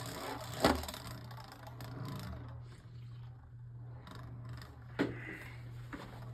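A Beyblade Burst Eclipse Genesis top spins on its Yard driver's metal ball tip in a plastic stadium, with a faint steady whir and scraping. Two sharp clicks come through, one under a second in and one about five seconds in.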